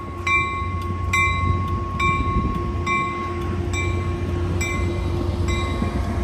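ACE bilevel commuter train rolling slowly past, with a steady low rumble and a sharp ringing clang repeating about once a second.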